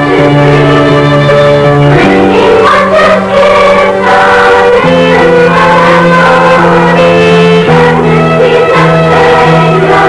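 School choir singing a Christmas song in long held notes that change every second or two, with instrumental accompaniment.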